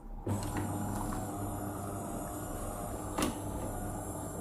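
DeLonghi automatic coffee machine running with a steady low hum as its pump dispenses coffee, starting just after the beginning, with a single click about three seconds in.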